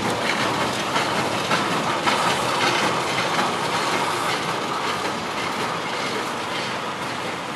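GE U5B diesel switcher locomotive hauling a flat wagon slowly along a yard track, its wheels clacking over the rail joints. The noise fades slowly as it moves away.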